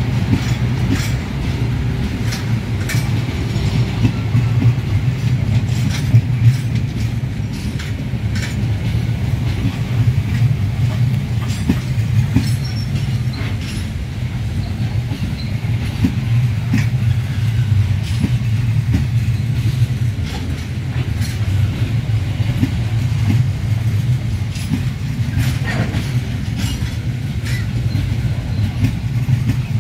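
Argo Lawu passenger train's stainless-steel coaches rolling past close by: a steady low rumble of wheels on rails with scattered, irregular clicks and knocks.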